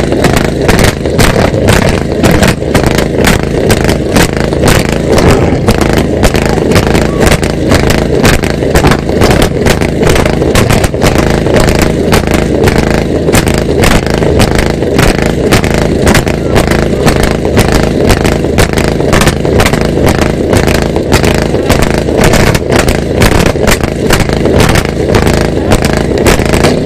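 Car engines revved hard and held at high revs in a rev battle, a loud, continuous exhaust din with a rapid crackle running through it.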